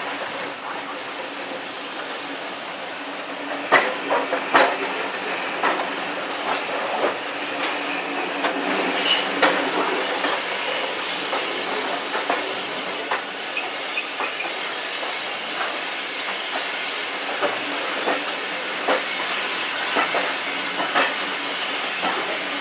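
Heritage railway train running on the track: a steady rumble with irregular clicks and knocks from the wheels over the rail joints. A brief high-pitched squeal comes about nine seconds in.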